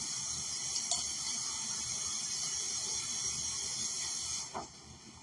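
Kitchen tap running in a steady stream, then turned off about four and a half seconds in.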